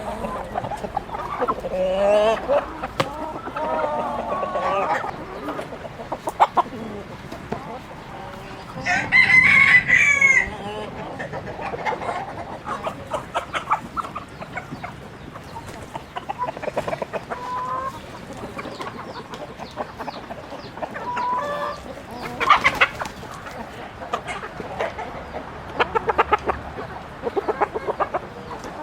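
Chickens clucking and calling through the whole stretch, with a rooster crowing once, loudly, about nine seconds in.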